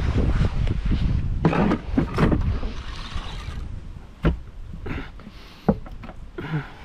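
Bumps, scuffs and knocks of a small boat and fishing gear being handled as someone climbs aboard, with low rumbling handling noise at first and two sharp knocks about four and six seconds in.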